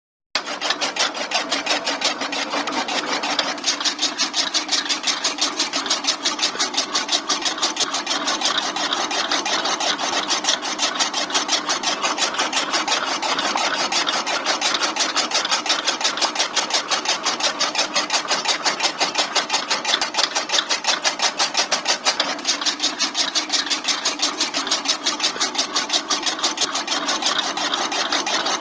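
Small motor-driven model chaff cutter running, a fast, even mechanical clatter that starts about half a second in and keeps going steadily.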